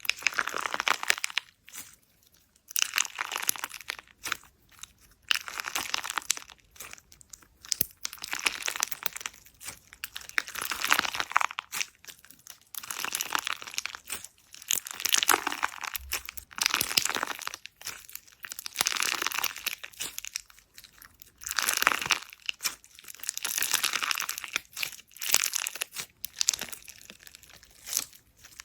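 Slime being squeezed and pressed by hand, crackling in repeated bursts about every one to two seconds with short pauses between.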